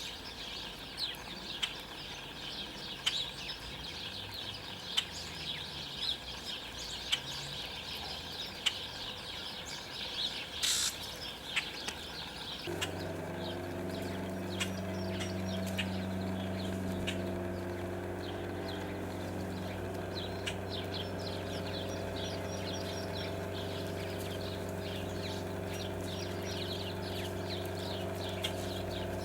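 Small songbirds chirping and calling in quick, short, high notes. About halfway through, a steady low hum starts abruptly and carries on under the calls.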